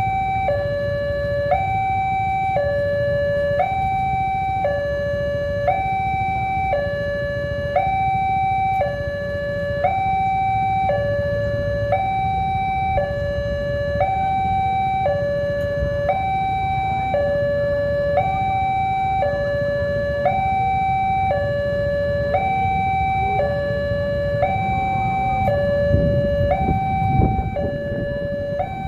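Railway level-crossing warning alarm sounding a steady two-tone high-low signal, switching pitch about once a second, over a low rumble of traffic or a train, with a few louder knocks near the end.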